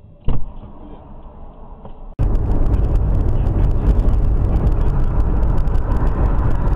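A single loud bang, likely a vehicle collision caught on a dash camera, then quieter sound. About two seconds in it switches abruptly to loud, steady road and engine noise from a moving car.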